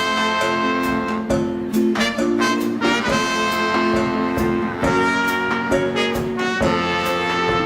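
Live swing band playing an instrumental passage: horns, including saxophone and trumpet, over a steady drum beat.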